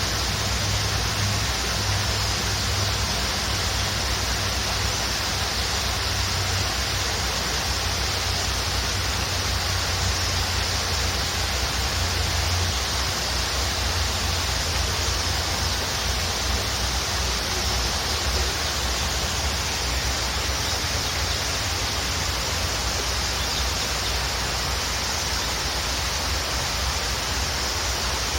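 A waterfall rushing steadily: an even hiss of falling water with a low rumble underneath.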